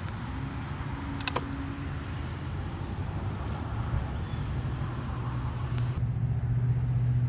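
The 2005 Mercedes SL500's 5.0-litre V8 idles steadily as a low hum that grows somewhat louder near the end, with a short click about a second in.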